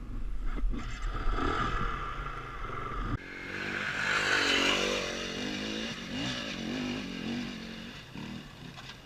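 Dirt bike engine revving, its pitch rising and falling. The sound changes abruptly about three seconds in, then grows louder and fades away near the end.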